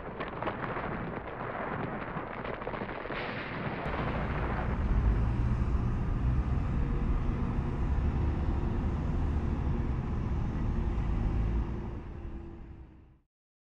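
Heavy mechanical rumble of a vibroprobe working in stone backfill, with a crackle of many small clicks over the first few seconds, then a deeper, steadier low rumble that fades out near the end.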